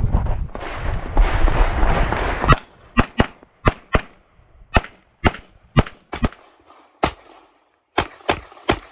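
Rapid pistol shots from a CZ 75 TS Czechmate competition pistol: more than a dozen sharp cracks over about six seconds, many in quick pairs. Before them comes a loud rushing noise for the first two and a half seconds.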